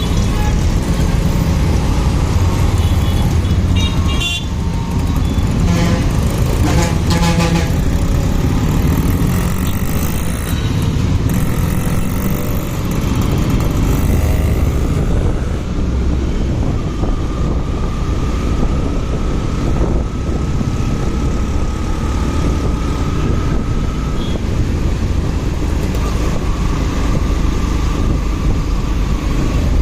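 Motorcycle riding in traffic: a steady engine and wind rumble, with vehicle horns tooting a few seconds in and a long held tone later on.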